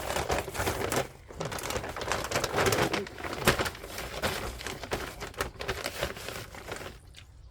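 A bag of granular soil amendment being handled and shaken out over the garden bed: a dense rustling and crackling that dies down about seven seconds in.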